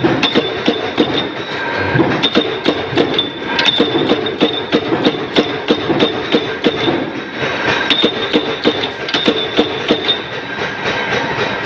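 Mechanical punch press stamping wing-shaped rings out of 2.3 mm thick sheet metal: an even run of sharp strikes, about three a second, over the machine's steady running noise.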